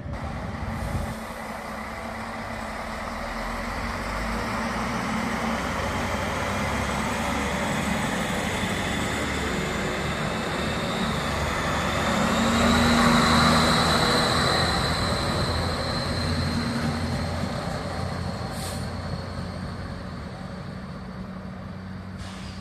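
Diesel train running through a station, its engine growing steadily louder to a peak about halfway, then fading away, with a thin high whine over it at the loudest part.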